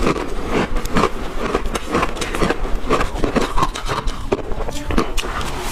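Ice being chewed and crunched in the mouth: a steady run of crisp crunches, about two or three a second.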